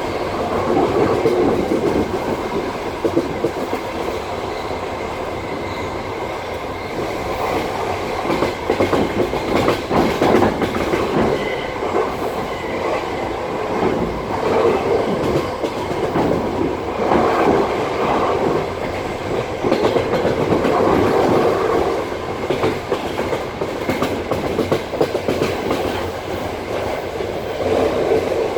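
Passenger train carriage wheels clattering over rail joints, heard from inside the carriage. The wheels keep up a steady rolling rumble punctuated by repeated knocks.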